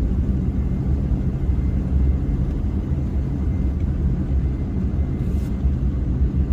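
Diesel pickup truck engine running with a steady low rumble as the aired-down truck is worked on the snowy slope.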